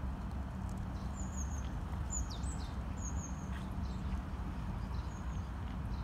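A small bird chirping: a few short, high chirps between about one and three and a half seconds in and one more near the end. Under them runs a steady low hum.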